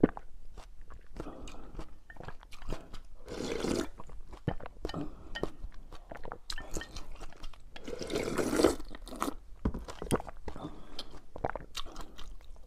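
Close-miked eating of rice noodles with tofu skin: chewing with many small wet clicks, and three longer slurps of noodles spread through the stretch.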